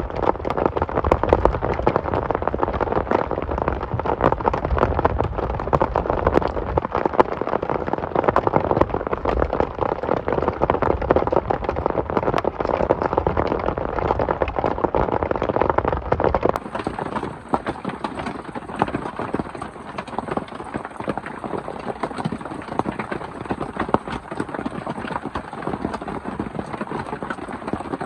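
Heavy rain falling, a dense spatter of drop hits over a low rumble. About sixteen seconds in the sound changes abruptly to a thinner rain with less low end and a steady high hiss.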